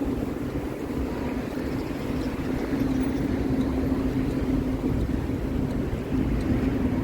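City street traffic: a steady engine hum over a low rumble, swelling slightly a few seconds in.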